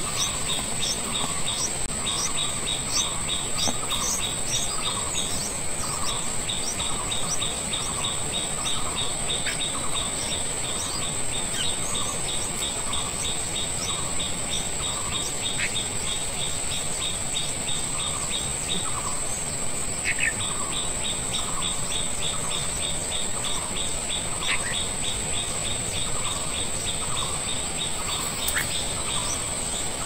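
Short bird chirps repeated about twice a second, with brief pauses, over a steady high-pitched insect drone.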